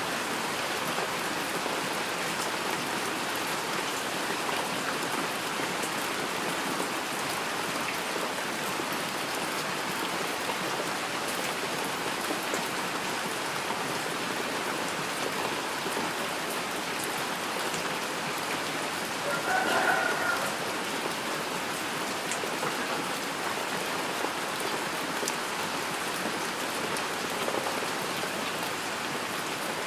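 Steady heavy rainfall, an even hiss of drops. About two-thirds of the way in, a brief, slightly louder sound rises above it.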